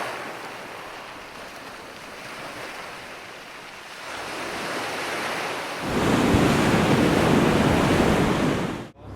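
Sea waves washing and breaking, with wind buffeting the microphone; the sound grows from about four seconds in, is loudest with a heavy low rumble over the last three seconds, and then cuts off suddenly.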